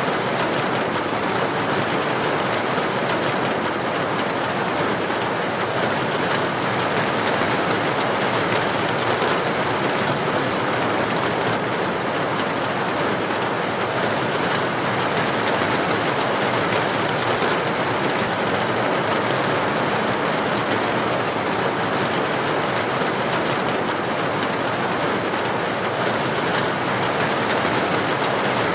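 Heavy rain falling steadily on a street: an even, unbroken hiss with no thunder.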